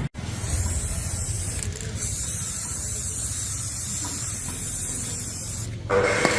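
A steady hissing spray, broken by a brief dropout just after the start, with the sound changing near the end.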